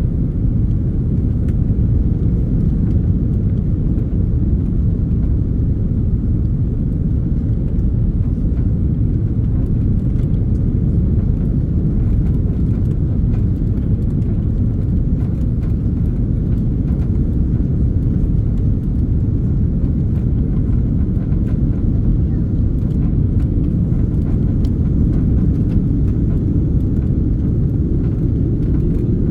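Airbus A330 cabin noise: a steady, even rumble of engines and airflow heard from inside the airliner, with no sudden changes.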